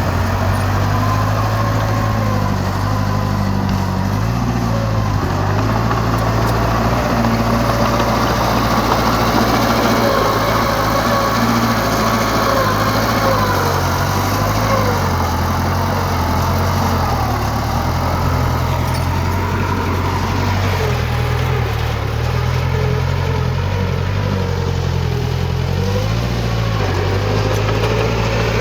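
Heavy diesel engine of earthmoving machinery running steadily, its pitch stepping up and down slightly a few times.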